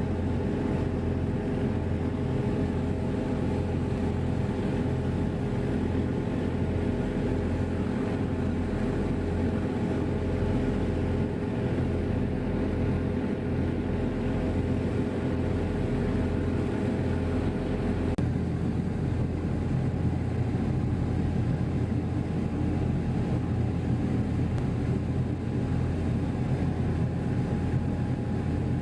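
Steady low drone of a passenger ferry's engines heard on board, with a few steady tones over the hum that shift about two-thirds of the way through.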